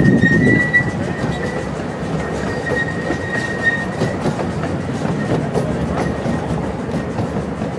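Small park railway train heard from an open riding car: a steady rolling rumble with regular wheel clicks over the rail joints. A steady high wheel squeal runs through the first few seconds and stops a little before halfway.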